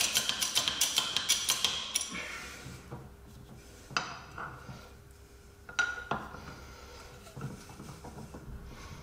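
A hand ratchet clicking rapidly for about two seconds, then a few separate metal clinks of tools on metal, with a short ring after each.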